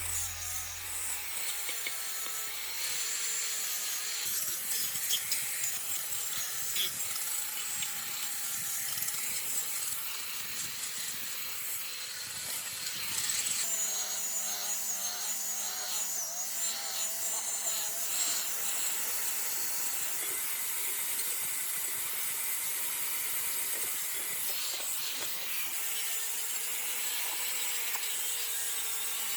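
An abrasive tool scraping and rubbing against metal in a steady, continuous rasp, with a faint wavering whine running through it, a little louder in the middle.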